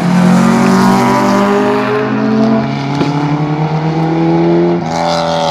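Hatchback rally car's engine revving hard, its note rising and falling repeatedly as the driver works the throttle through a cone course. The note jumps up sharply near the end, then falls away.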